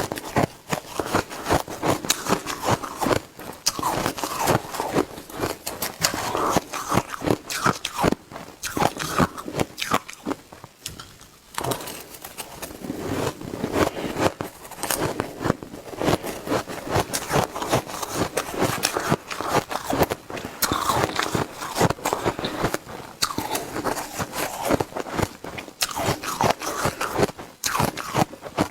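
Shaved ice being bitten and chewed in rapid, crunchy bites, with a short lull about eleven seconds in.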